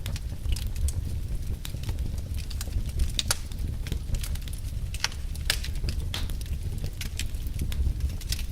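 Wood fire burning logs, crackling with irregular sharp pops over a steady low rumble of the flames.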